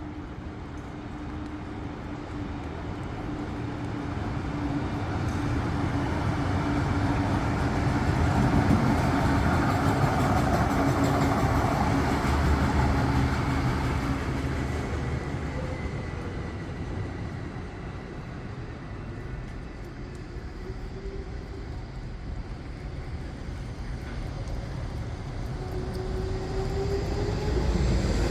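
A vehicle passing in the street, its rumble swelling to a peak about ten seconds in and then fading; near the end a rising whine comes in as another vehicle draws near.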